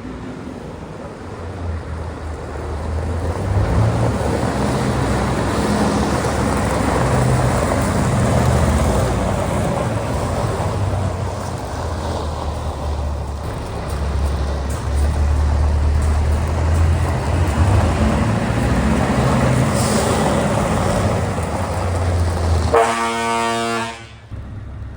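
Scania R 580 truck's V8 diesel engine running, its low note rising and falling, with a horn blast of about a second near the end.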